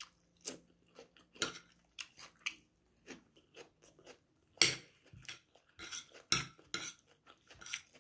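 Close-miked chewing of a raw radish slice: irregular crisp crunches, the loudest about five and six and a half seconds in, with a metal spoon clinking and scraping on a ceramic plate.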